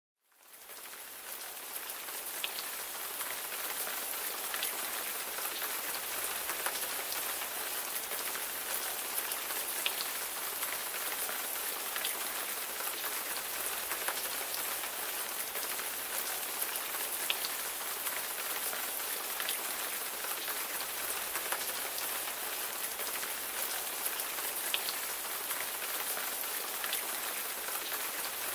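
Steady rain falling: a dense, even hiss with scattered individual drop ticks. It fades in over the first second or two.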